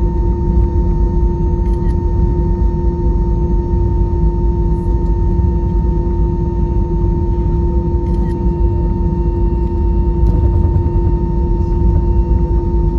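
Airbus A320 cabin noise: a steady low rumble of the engines and airflow with a constant hum tone on top, unchanging throughout.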